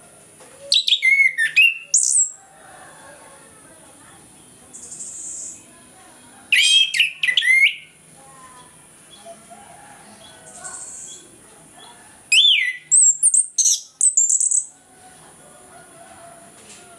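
Orange-headed thrush singing: three loud bursts of quick, varied whistled phrases, each a second or two long and several seconds apart, with softer notes in between.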